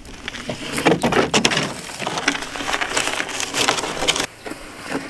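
Rapid, irregular crackling and snapping, as of dry material being broken or crushed, that stops abruptly a little over four seconds in.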